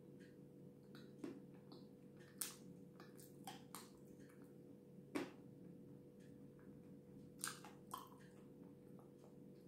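Close-up chewing of a mouthful of cream cake: irregular soft wet mouth clicks and smacks, a few louder than the rest, over a faint steady hum.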